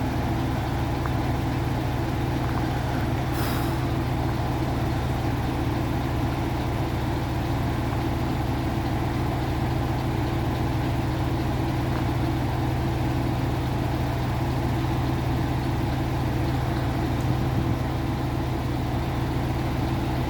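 Crane's engine running steadily under load during a boat lift, a constant low drone. There is a short hiss about three and a half seconds in.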